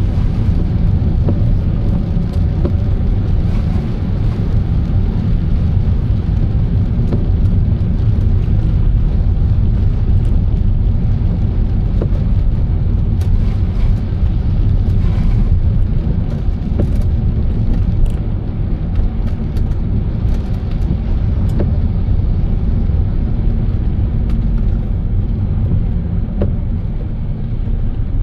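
A car driving on a wet road: a steady low rumble of engine and tyres, with faint scattered ticks.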